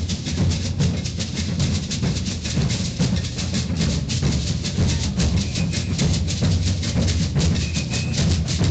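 Maracatu percussion ensemble playing a dense, driving rhythm: deep booming bass drums under fast, crisp strokes and rattles.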